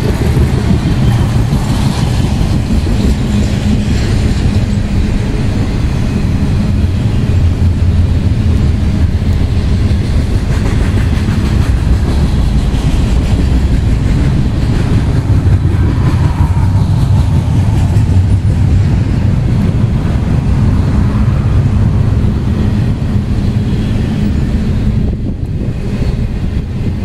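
Cars of a Norfolk Southern intermodal freight train rolling past: a loud, steady low rumble of steel wheels on the rails.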